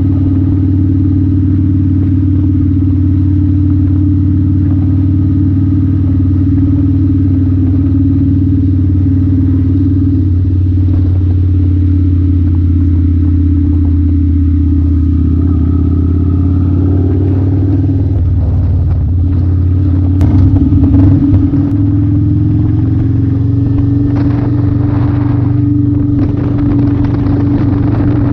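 2008 Kawasaki Vulcan 900 Classic's V-twin engine running steadily under way while cruising. About two-thirds of the way through, the engine note breaks up briefly with a short louder patch, then settles at a slightly higher pitch.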